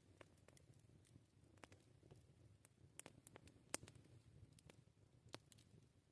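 Wood campfire crackling: irregular sharp pops and snaps over a faint low rumble of the burning fire, with one louder pop just past the middle.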